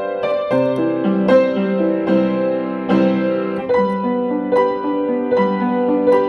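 Slow, gentle piano music: notes and chords struck about twice a second, each ringing on under the next.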